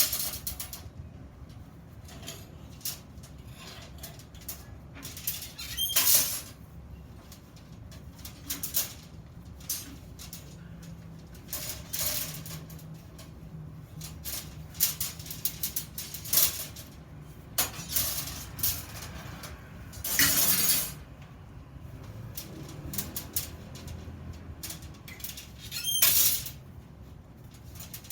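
Metalwork at a bench: scattered light clinks and taps of steel parts, with four louder noisy bursts of about half a second to a second each.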